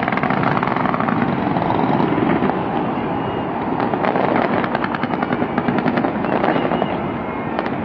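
Dense, continuous fireworks: a steady rumble of overlapping bursts with rapid crackling, thickest about four to six seconds in.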